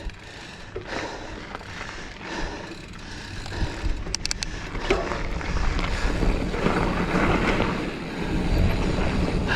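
Giant Fathom mountain bike rolling fast down a dirt trail: tyre roar on the dirt and wind buffeting the camera mic, growing louder as speed builds. A short run of sharp clicks or rattles comes about four seconds in.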